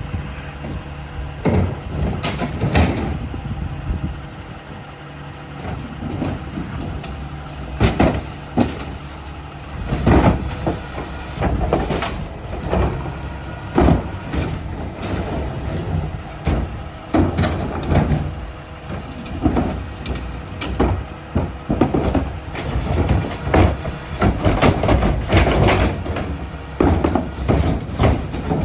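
Mack rear-loader garbage truck working: its diesel engine runs steadily under repeated clanks and bangs.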